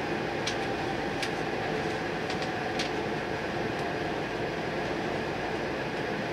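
Steady hum inside an E4 series Shinkansen motor car at a station platform, with a few short, sharp clicks between about half a second and three seconds in.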